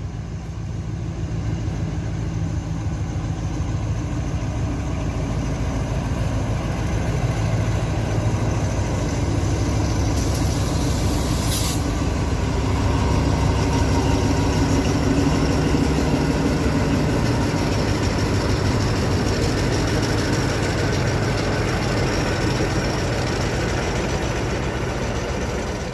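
Diesel locomotive of a freight train running close by, a steady engine rumble that swells a little and then holds as the train draws in. A brief high-pitched sound comes about ten seconds in.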